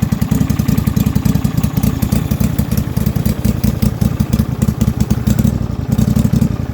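Yard Pro YT-16 riding mower engine running steadily on its new carburetor with fast, even firing. It is shut off right at the end and winds down.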